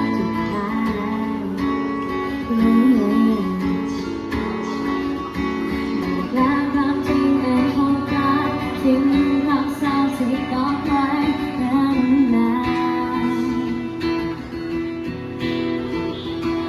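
A cover song performed by a duo: a strummed acoustic guitar accompanies a singer's melody.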